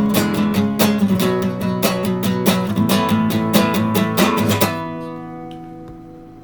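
Acoustic guitar strummed in quick, even strokes. It stops on a final chord that rings out and fades away, closing the song.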